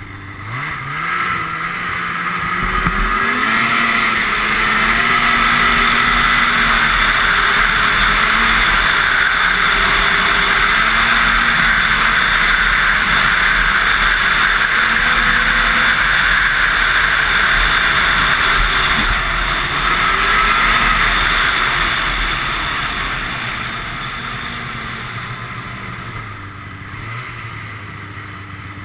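Ski-Doo Blizzard 5500 snowmobile's fan-cooled Rotax two-stroke twin revving up and running hard at speed, its pitch wavering as the throttle changes. The engine eases off and winds down over the last few seconds.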